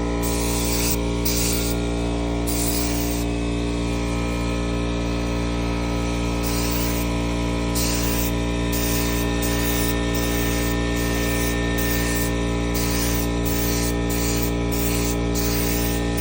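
LVLP paint spray gun hissing in repeated short bursts, one per trigger pull, over the steady hum of a small air compressor running.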